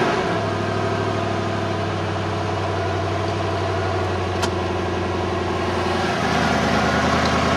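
Ford 5.4L Triton V8 running steadily just after starting, following a rebuild. About six seconds in, its low note drops and deepens.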